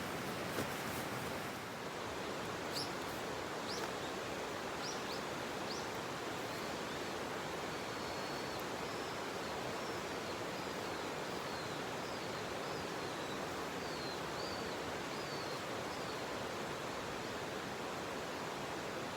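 Steady rushing background noise, with a small bird calling: a few short rising chirps, then a string of quick wavering notes that stops a few seconds before the end.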